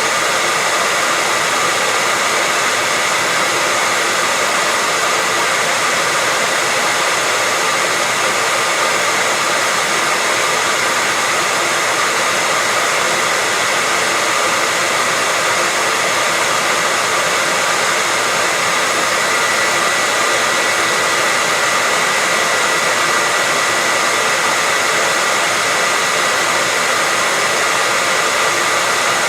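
Hair dryer blowing steadily: an even, unchanging rush of air with a thin whine on top, played as white noise for putting babies to sleep.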